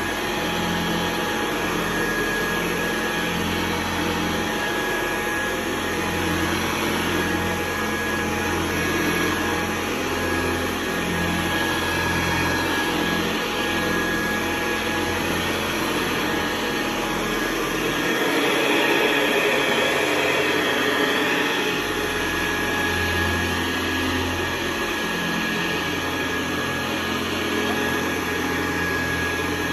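A 1974 Hoover Convertible U4047 upright vacuum cleaner running steadily, a continuous motor hum with a steady whine. For a few seconds in the middle the sound grows a little louder and brighter as the low hum drops away, then settles back.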